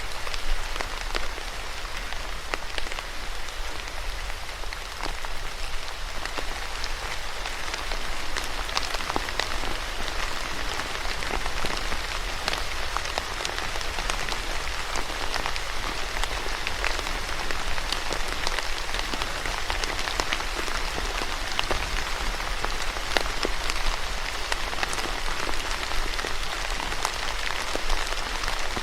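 Steady rain falling on a surface, a continuous hiss with many individual drops ticking through it.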